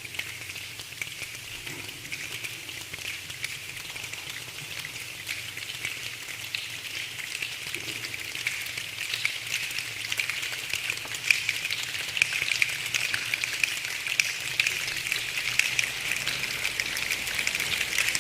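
A choir imitating rain with their hands: a dense patter of snaps and clicks that grows steadily louder.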